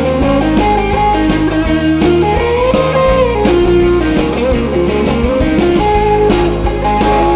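Live rock band playing an instrumental passage: a lead guitar line with bending, gliding notes over bass and a steady drum beat.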